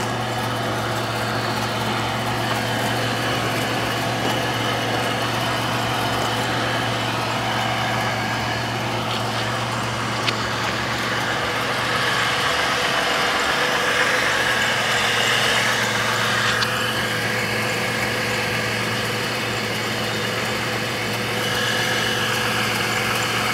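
1997 Chevrolet Malibu's 3.1-litre V6 idling steadily while it warms up, run with the coolant cap off to burp air out of the cooling system.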